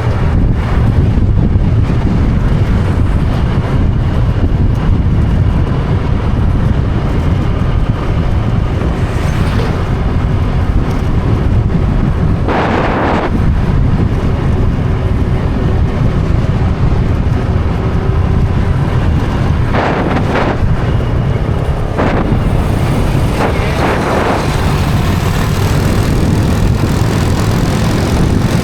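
Wind buffeting the microphone of a rider on a Honda Click 125 scooter, a loud steady rumble with the scooter's engine and road noise underneath. A few brief louder rushes break through now and then.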